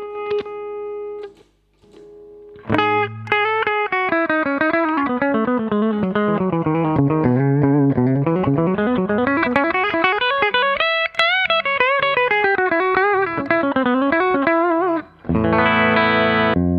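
Electric guitar on its bridge pickup played through the clean channel of a Fender Hot Rod Deluxe IV, a 40-watt tube combo with a 12-inch Celestion Type A speaker, with a little reverb. A held chord, then fast single-note runs that go down and climb back up, and a strummed chord near the end.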